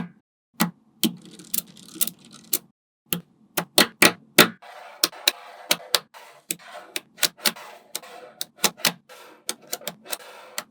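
Small magnetic balls clicking sharply together as they are snapped into place one after another, in an uneven run that comes faster in the second half.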